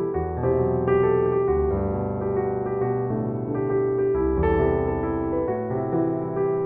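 Background piano music: slow, soft piano with sustained chords and a bass line, a new chord roughly every second.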